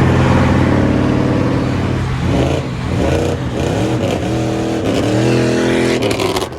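Car engine and exhaust running under acceleration over a steady low drone, the engine's pitch climbing and dropping several times. The sound cuts off suddenly at the end.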